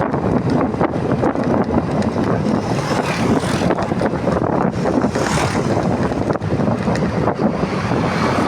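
Wind buffeting the microphone on a moving motorcycle: a loud, steady, fluttering rush of air noise.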